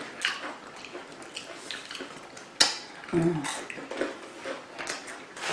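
Eating sounds: scattered light clicks and clatter of utensils and food containers being handled, with one sharp click about two and a half seconds in, followed by a brief low voiced hum.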